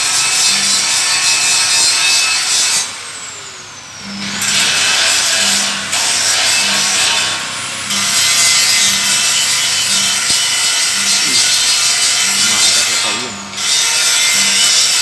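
Grinder working over the metal rear tailgate of a truck body, a steady harsh scraping hiss that smooths the surface for paint. It drops off for about a second around three seconds in and again briefly near the end.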